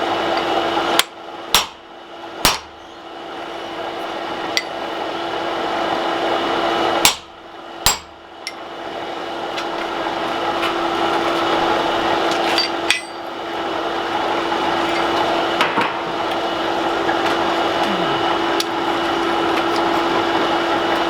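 A hand hammer striking steel in a blacksmith's shop: three sharp ringing blows about a second in, two more around seven seconds in, and a few lighter taps later. Under them runs a steady whooshing noise with a constant low hum.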